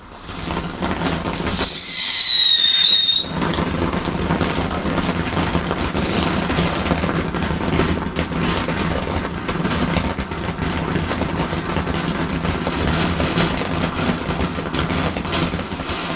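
A firework hissing steadily. From about one and a half seconds in, a loud shrill whistle sounds for about a second and a half, falling slightly in pitch, then cuts off.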